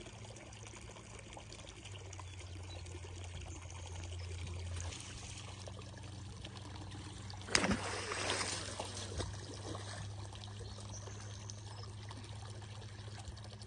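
Flood-swollen creek water trickling and running. About halfway through comes one sudden sharp noise, followed by a second or two of rustling and splashing.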